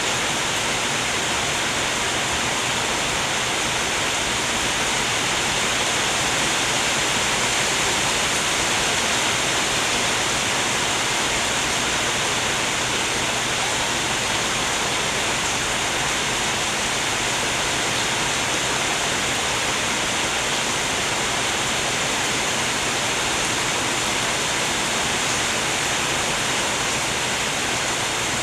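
Heavy rain falling, a steady hiss that neither rises nor falls.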